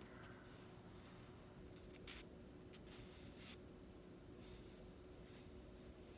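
Faint scratching of a drawing tool on paper: a few short strokes, about two, two and a half and three and a half seconds in, then a longer stretch of light scribbling, over a faint steady hum.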